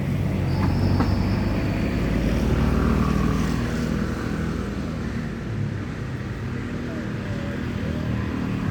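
A motor vehicle's engine running steadily, a low hum with a few faint higher chirps above it.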